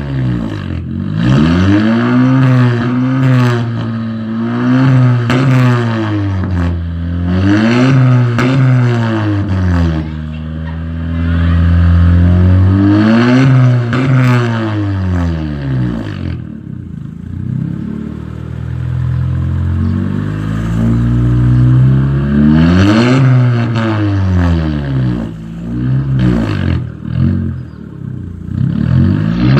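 Honda Civic 1.5-litre turbo four-cylinder engine revved repeatedly through a Brexx aftermarket cat-back muffler. The pitch rises and falls in a series of blips, held high once near the middle, with a lower, quieter stretch before the revving picks up again.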